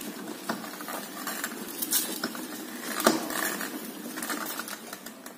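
Motor scooter pushed forward by hand with the engine off, giving irregular clicks and scraping rattles, the loudest about three seconds in. The owner suspects the clutch or the V-belt.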